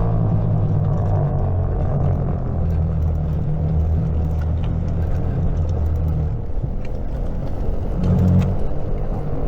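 Greenworks 60V electric mini bike being ridden: a steady motor hum over a rushing noise of riding, the hum shifting higher briefly about eight seconds in as the speed changes.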